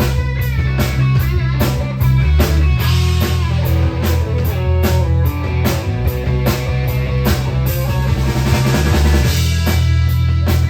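Rock song playing: a steady drum-kit beat with a heavy bass line and electric guitar.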